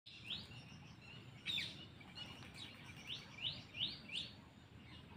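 Bird chirping: a string of short, high chirps, each sweeping quickly upward.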